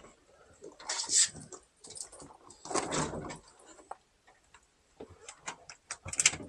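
Irregular rustling and a run of quick light clicks near the end: handling noise from things being moved about.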